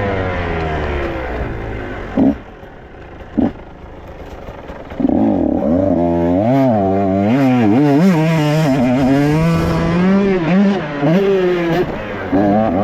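Dirt bike engine dropping in revs, then two sharp knocks. From about five seconds in it is revved hard up and down several times, the pitch swinging repeatedly, and eases off near the end.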